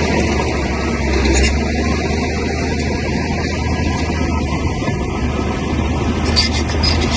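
Crawler bulldozer's diesel engine running steadily under load, with a brief knock about a second in and a few sharp clanks near the end.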